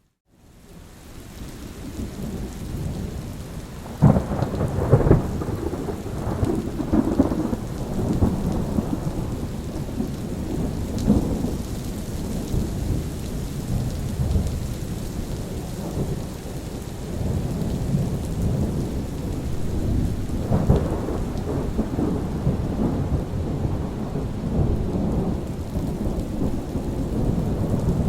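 Thunderstorm: steady rain with rolling thunder. The sound fades up from near silence at the start; a sudden thunderclap about four seconds in rolls on for several seconds, and another rumble of thunder starts about twenty seconds in.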